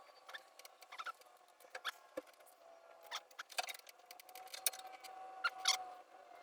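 Scattered light clicks and taps of parts and hand tools being handled, coming at irregular moments over a faint steady hum.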